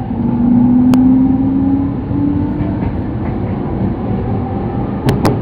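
Sotetsu Line electric train running, heard from inside the car: a steady low rumble with a motor whine that rises slowly over the first half, and a few sharp clicks, one about a second in and a quick cluster near the end.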